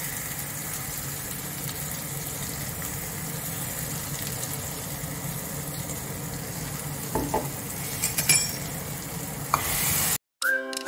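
Onion paste sizzling steadily in hot oil in a steel kadai as it is poured in from a mixer-grinder jar, with a few knocks against the pan in the last few seconds. The sizzling cuts off suddenly and music begins just before the end.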